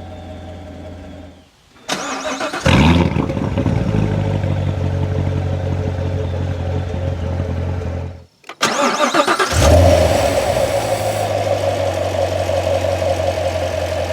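Corvette Stingray's LT1 V8 starting up with a sharp flare of revs through the Z51 multi-mode exhaust, then settling into a steady low idle. About eight seconds in, a second start-up flares and settles to idle again.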